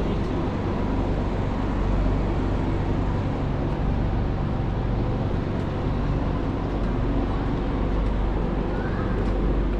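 Steady city street traffic noise: vehicles running and passing, with a constant low engine hum underneath.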